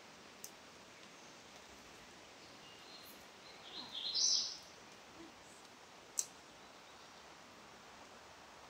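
Quiet woodland creek ambience with a short bird call about four seconds in. A faint sharp click comes near the start and a louder one about six seconds in.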